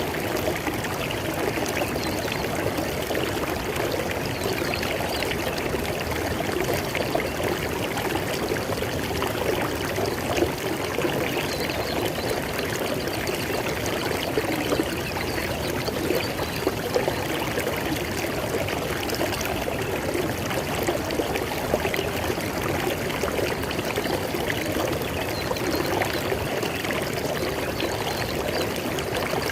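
River water flowing over rocks in a steady, even rush with continuous splashing and trickling.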